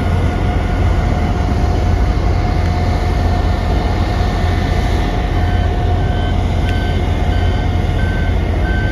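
Heavy vehicle's diesel engine rumbling steadily under load; about five and a half seconds in a back-up alarm starts beeping repeatedly, a sign that the machine is reversing.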